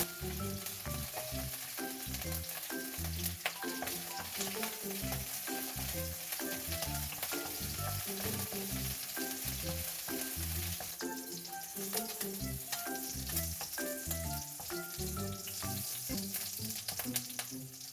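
Chopped chicken skin frying in hot oil, sizzling and spattering with small crackles, stirred in the pan as its fat renders out.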